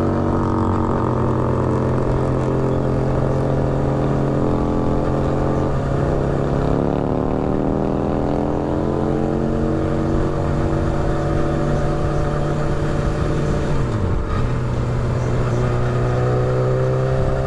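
Motorcycle engine heard from the rider's helmet while riding: its note sinks slowly, picks up and rises for a few seconds about six seconds in, then holds steady, with a brief dip about fourteen seconds in.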